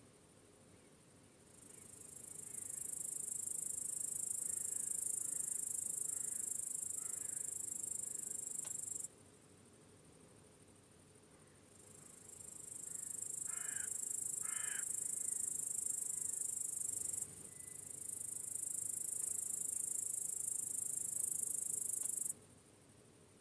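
Crickets chirping in a high, dense trill that comes in three bouts, each swelling in and cutting off abruptly, with a few seconds of quiet between them. Two short bird calls sound in the middle, with fainter chirps before them.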